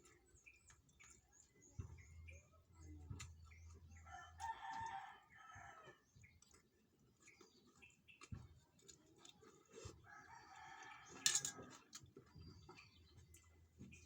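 A rooster crowing twice, several seconds apart, amid scattered small clicks and taps.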